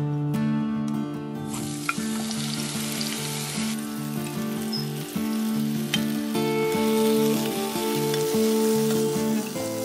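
Chopped tomatoes and fresh spinach sizzling in hot oil in a pan and being stirred with a wooden spatula. The steady sizzle comes in about a second and a half in and grows stronger a few seconds later.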